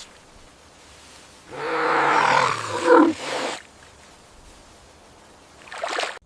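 An animal's loud roaring call lasting about two seconds, followed near the end by a shorter, fainter call.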